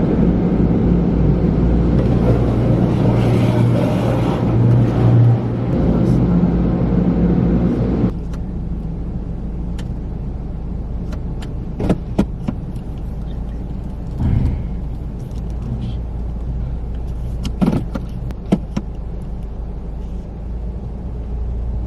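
Automatic car wash working over the car, heard from inside the cabin: a loud rushing noise over a low steady hum for about eight seconds, then it drops to a quieter run broken by a few sharp knocks.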